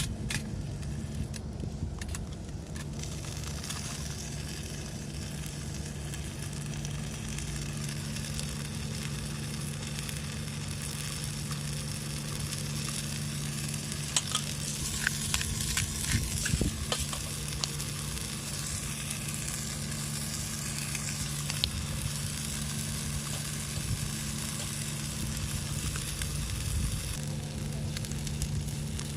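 Food sizzling in a frying pan over a small fire, a steady hiss with a few sharp crackles and taps about halfway through, over a steady low hum.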